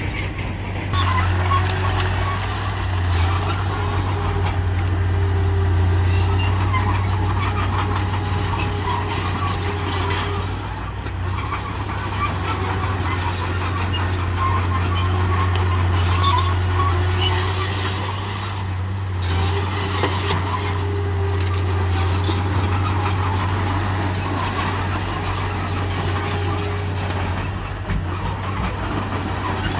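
Heavy diesel earthmoving machinery, a bulldozer and dump trucks, running steadily with a constant low drone. High-pitched squeaks come and go over it.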